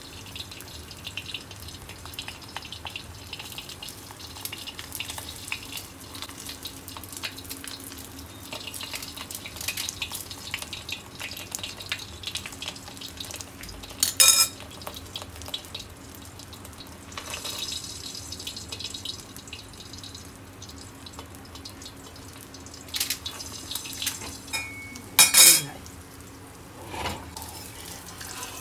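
Egg omelet frying in an oiled iron pan: a steady crackling sizzle, with sharp metal clinks of a utensil against the pan about halfway through and again a few seconds before the end.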